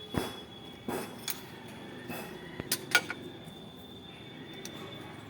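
Metal tools and shock absorber parts clinking and knocking as they are handled: about six short sharp clinks, the loudest about three seconds in, over a faint steady high tone.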